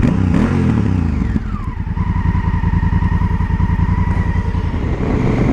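Honda Africa Twin's 998 cc parallel-twin engine running as the motorcycle rides along, the revs dropping in the first second or so and then holding steady.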